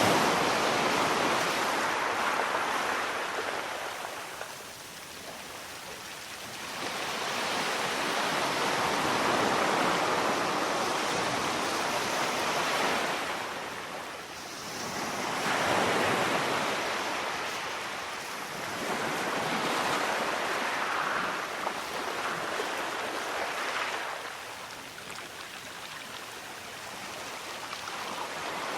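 Sea waves surging in and drawing back in slow swells, about four times, each swell rising and fading over several seconds.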